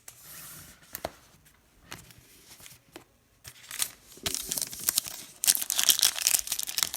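Foil trading-card pack wrapper crinkling and being torn open by hand, soft at first and then a busy run of crinkling and tearing from a little past halfway.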